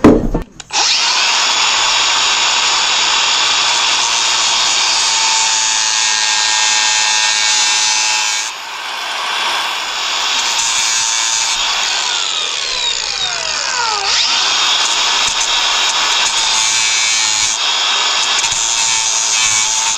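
A sharp knock, then a handheld power tool running loudly and steadily, with a brief drop in level about eight seconds in.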